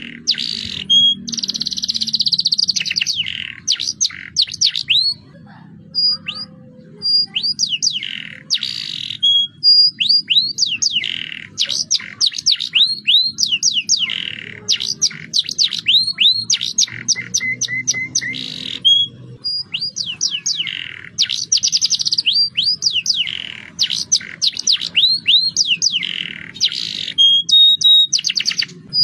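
Young domestic canary singing a long, fast song of rolling trills and quick falling whistled notes, in phrases broken by brief pauses.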